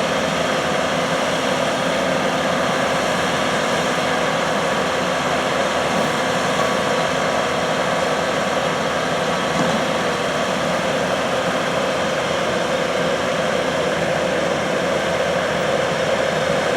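Steady mechanical drone with a few faint held tones in it, unchanging throughout.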